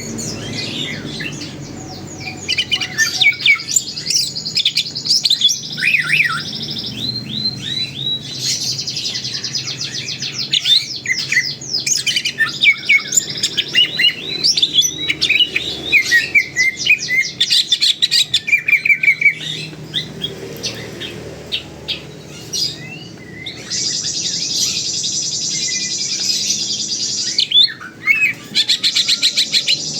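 Greater green leafbird (cucak ijo) singing without pause: a fast, varied run of chirps, whistles and sweeping notes. Twice near the end it breaks into a dense buzzing trill lasting a few seconds.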